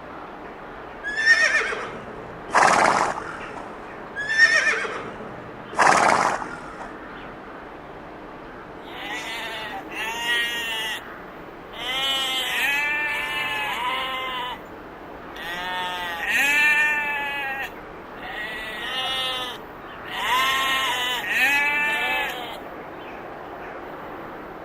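Sheep bleating again and again in wavering calls, starting about nine seconds in. Before that come four short, loud sounds about a second and a half apart.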